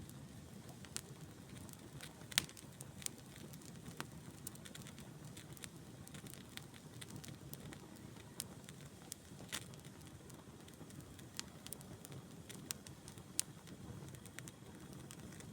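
Campfire crackling: irregular sharp pops and snaps, some louder than others, over a low steady rumble.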